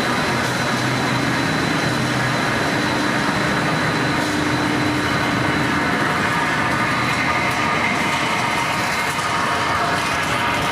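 Puffed-snack extruder production line running: a loud, steady machine noise with a faint continuous whine.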